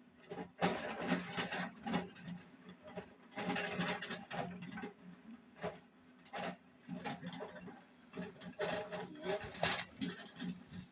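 Excavator at work: irregular clanks and scrapes over a steady engine hum.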